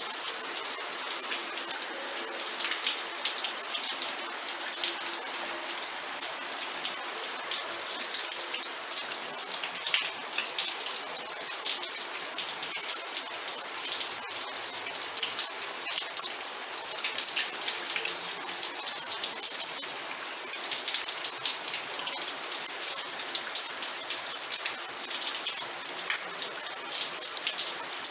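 Steady rain falling, with many sharp, close drop impacts on a surface, even in level throughout.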